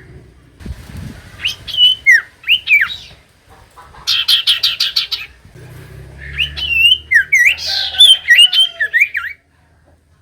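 Common iora singing: whistled notes that swoop up and down, a fast rattle of about a dozen repeated notes around four seconds in, then a string of looping whistles that stops sharply near the end.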